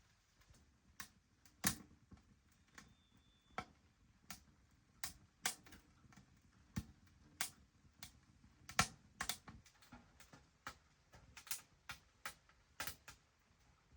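Freshly lit wood fire in a tent wood stove, crackling with faint, irregular sharp pops about once a second as the kindling catches.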